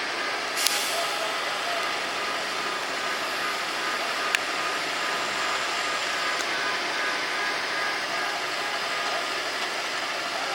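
Steady street traffic noise, vehicle engines running. A short hiss comes under a second in, and a single sharp click about four seconds in.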